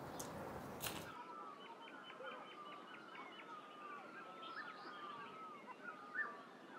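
Faint birdsong: several small birds chirping and warbling, with a quick trill of about nine ticks early on. In the first second, before the birds come in, there are a few faint clicks.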